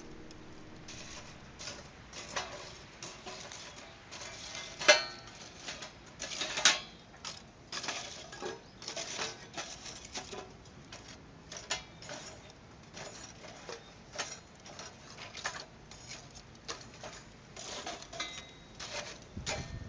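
Cooking utensils and dishes being handled: scattered light clinks and knocks, with two louder knocks about five seconds in and again near seven seconds.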